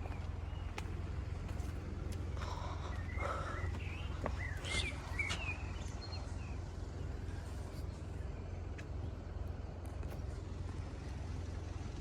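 Quiet outdoor background: a steady low rumble, with a few short bird chirps about three to five seconds in.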